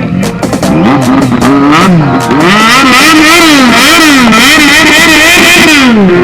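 Sport-bike engine revved over and over, its pitch climbing and dropping about twice a second.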